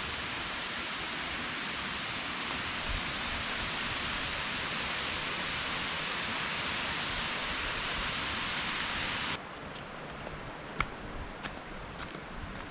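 Steady rush of the Kuang Si waterfall's cascading water. It cuts off suddenly about nine seconds in, leaving a quieter background with a few sharp clicks.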